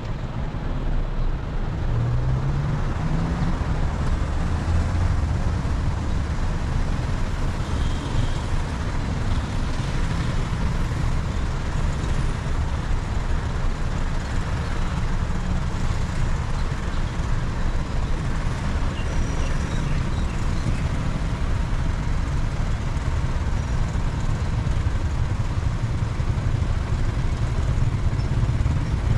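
A car driving with steady engine and road noise, with the engine's pitch rising briefly about two seconds in.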